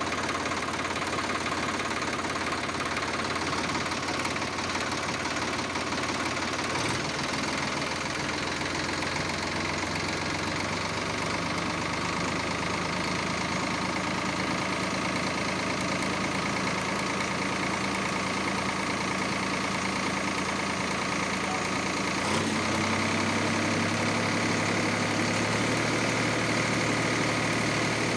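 Small motor of a homemade toy tractor running steadily with a humming whine. Its pitch shifts twice, about 7 and 22 seconds in.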